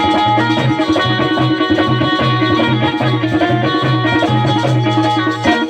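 Bundeli rai folk music playing without singing: drums keep a steady repeating rhythm under sustained melody notes.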